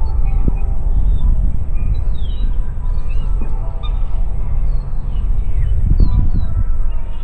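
Wind buffeting the microphone in a steady low rumble, with small birds calling in many short, high chirps and quick downward-sliding notes.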